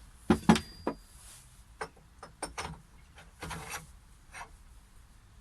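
Heavy lathe accessories being handled and set down: two sharp knocks with a short metallic ring about half a second in, then lighter clinks and knocks and a brief scrape.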